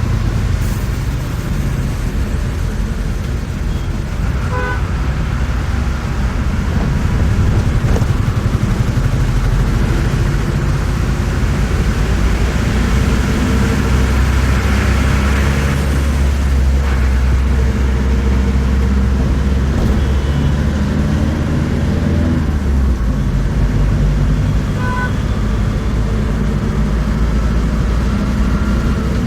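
Bus engine drone and road noise heard from inside a moving bus, with a steady low engine note that shifts about two-thirds of the way through and traffic noise swelling in the middle. Two short high beeps sound, early on and near the end.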